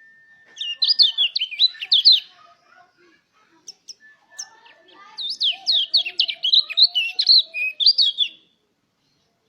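White-eye (pleci) singing in two bursts of rapid, high twittering notes: a short burst near the start and a longer one of about three seconds in the second half.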